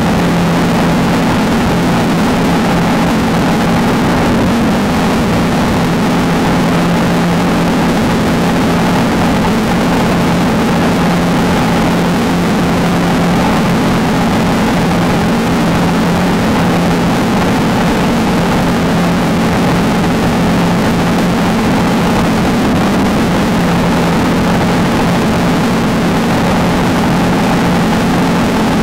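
Off-road race car engine running hard at a steady, unchanging pitch over a constant rush of noise.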